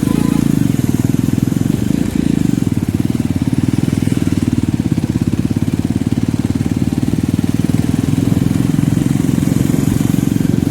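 Jawa Perak motorcycle's single-cylinder engine running steadily while riding, a low, rapid pulsing exhaust note.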